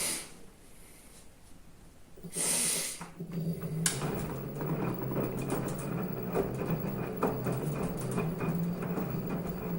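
Washing machine in mid-cycle: a short lull, a brief hiss about two seconds in, then the drum motor running with a steady hum and many small clicks and rattles.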